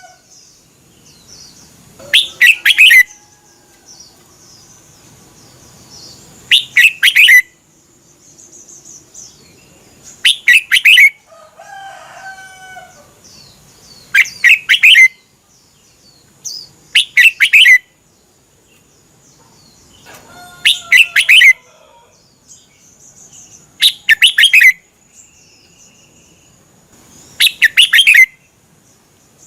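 Red-whiskered bulbul singing short, loud phrases about every three and a half seconds, eight in all. Fainter chirps come between the phrases.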